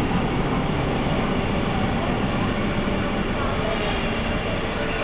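Electric multiple unit suburban train running along the line, heard from inside the coach as a steady rumble and rail noise.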